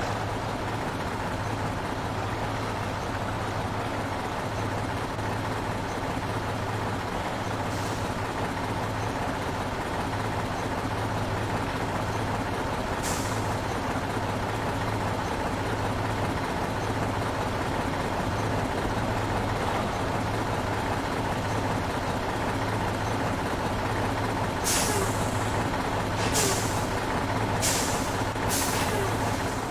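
Heavy truck's diesel engine running slowly and steadily, with short air-brake hisses: one about eight seconds in, another about thirteen seconds in, and four close together near the end.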